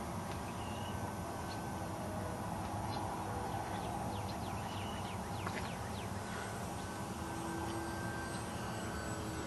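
A distant electric RC model airplane's motor and propeller whining faintly over steady outdoor background noise, getting a little stronger near the end. A few short bird chirps come in the middle.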